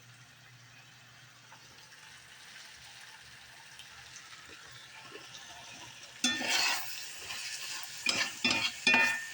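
Chicken, shrimp and spinach sizzling quietly in a hot iron skillet; about six seconds in, a utensil starts stirring and scraping through the food in several loud strokes.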